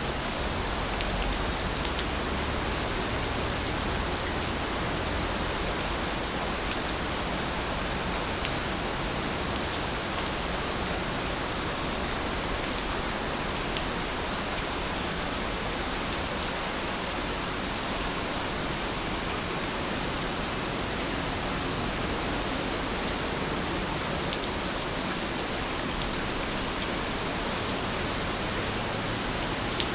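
Steady rain falling, an even hiss with scattered small drop ticks and no change in intensity.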